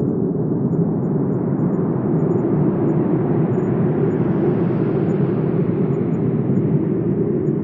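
Wind blowing steadily as a low, even rush, swelling a little about four to five seconds in and easing off again.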